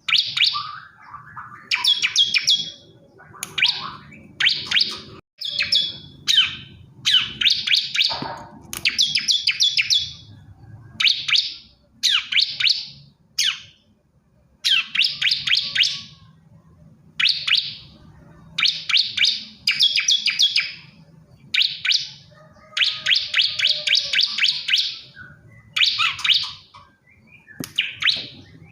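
Male bar-winged prinia (ciblek kristal) singing: short bursts of rapid, high chattering notes, repeated every second or two with brief pauses between them.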